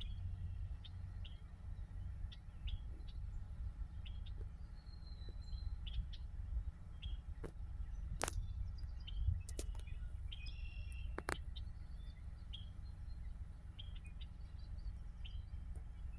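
Small birds chirping in short, scattered calls over a steady low rumble, with two sharp clicks about eight and eleven seconds in.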